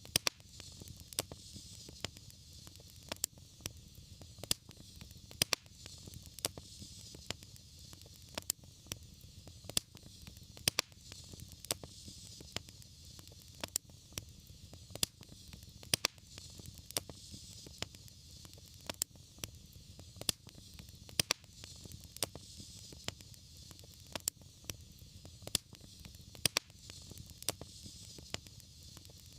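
Wood fire crackling: frequent sharp pops and snaps at irregular intervals over a steady low rumble and soft hiss of the flames.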